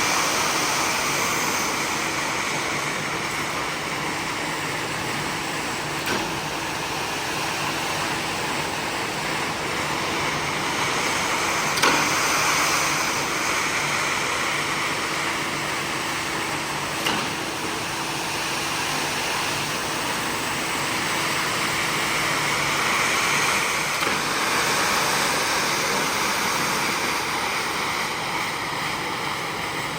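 A motor-driven carpet-cleaning machine running steadily with a faint constant hum, with a few short knocks.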